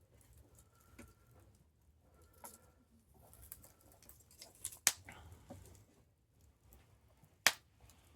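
Wood campfire crackling, with scattered small crackles and two sharp pops, one about five seconds in and one near the end.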